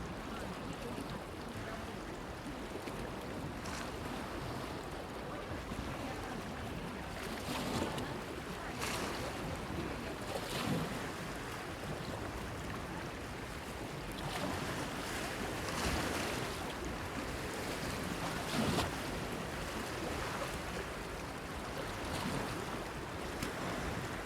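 Small waves washing and splashing against a pier, with brief splashes every few seconds over a steady wash of water. Light wind rumbles on the microphone.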